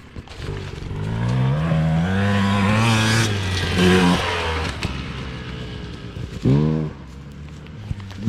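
Dirt bike engine accelerating, its pitch climbing steadily for a couple of seconds. It revs up once more and drops back, then gives a short sharp rev blip about six and a half seconds in.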